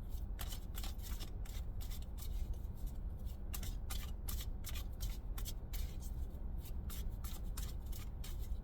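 Tarot deck being shuffled by hand for a clarifier draw: a run of quick, crisp card flicks and slaps lasting most of the stretch, over a steady low hum.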